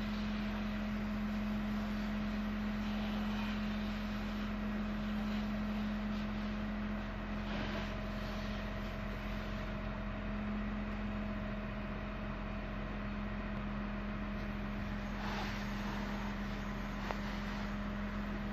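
An engine running steadily: a constant, unchanging hum over a steady rushing noise.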